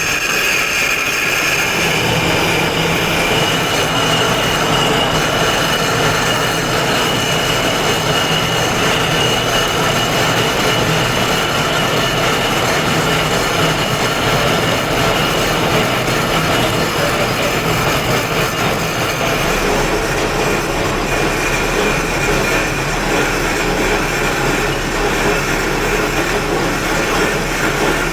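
Power tool grinding stone: a loud, steady hiss with a high whine held throughout.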